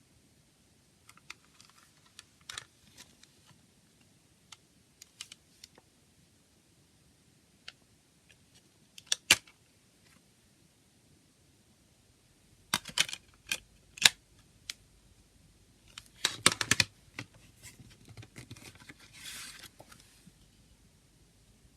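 A CD case and its packaging being handled: scattered sharp plastic clicks and taps, a cluster of louder clicks past the middle, then a short burst of rustling.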